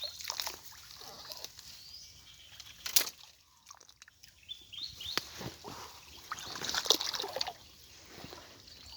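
Water splashing and sloshing in uneven bursts, with scattered sharp clicks; the loudest surges come about three and seven seconds in.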